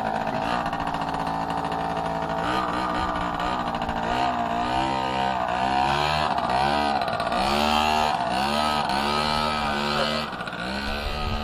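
Minibike engine running, steady at first, then revving up and down about once a second for several seconds as it is ridden.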